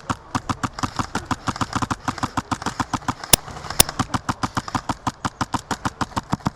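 HPA airsoft rifle (MTW carbine) firing a long, rapid string of shots at about eight a second until the magazine runs dry, with two sharper cracks just past the middle.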